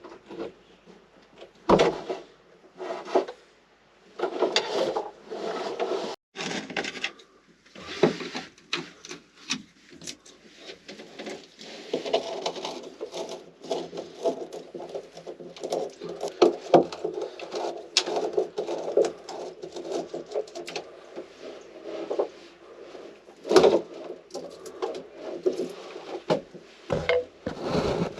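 Wood scraping and rubbing with scattered sharp knocks as a boat's wooden interior fittings are worked loose and pulled out.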